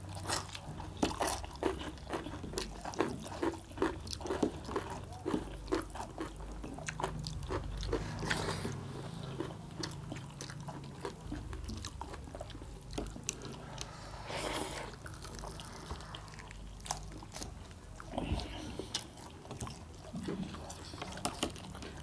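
Close-miked biting and chewing of roast quail meat and its small, thin bones. There are many quick crunchy clicks in the first several seconds, and softer, sparser chewing after that.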